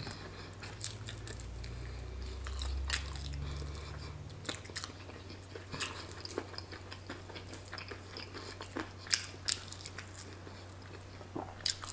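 Close-up chewing and crunching of crispy fried chicken wings, with irregular sharp crackles as the crust breaks, over a steady low hum.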